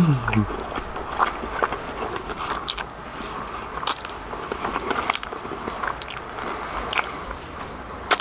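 Close-up mouth sounds of eating crispy, sticky fried chicken wings: chewing and biting, with sharp crackly clicks scattered irregularly throughout.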